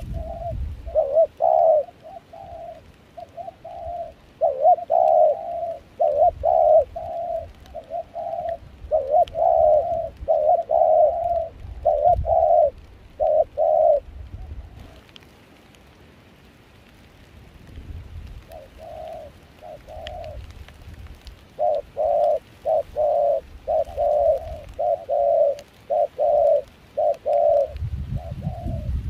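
Spotted dove cooing, the decoy bird's call in dove trapping: a run of short repeated coos, then a pause of a few seconds, then another run of coos.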